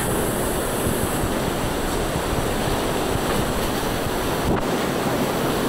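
Steady rush of falling water from a partly frozen waterfall.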